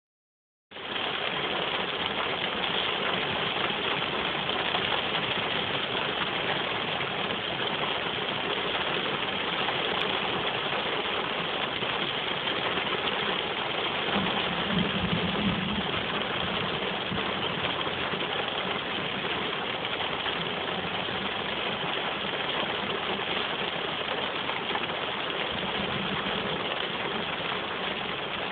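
Rain falling on a car, heard from inside the cabin as a steady, dense hiss. A low rumble swells briefly about halfway through.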